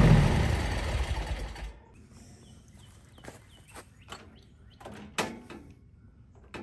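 The mini skid steer's gas engine is shut off and runs down, its sound falling away over the first two seconds. After that it is quiet, with a few sharp clicks and knocks and faint bird chirps.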